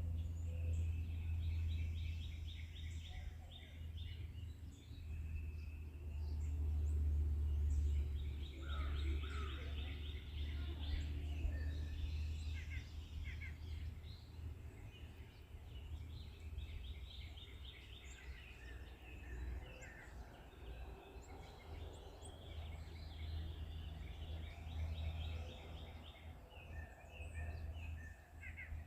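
Several forest birds singing, with quick trilled phrases from more than one bird overlapping throughout, over a steady low rumble.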